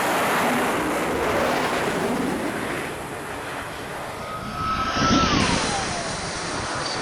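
Jet aircraft engine noise: a dense, steady rush, with a thin whine that falls in pitch about five seconds in.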